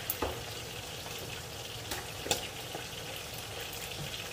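Scallops, tomatoes and onions sizzling steadily in a wok, with a few sharp pops and crackles.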